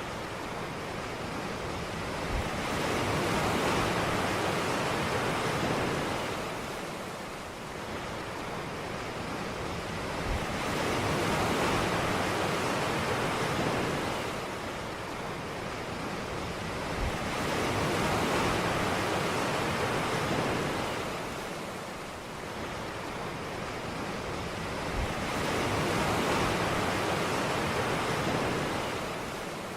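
Ocean surf: waves breaking and washing up the beach, swelling and ebbing four times, about every seven seconds, with a short low thump as each wave comes in.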